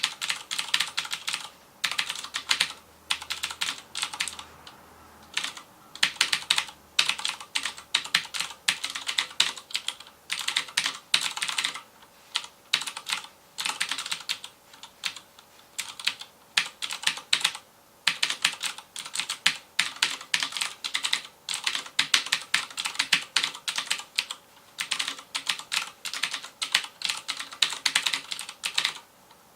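Fast typing on a FILCO Majestouch Convertible 2 mechanical keyboard with Cherry MX Blue switches: rapid clicky keystrokes in runs of a second or two, broken by short pauses.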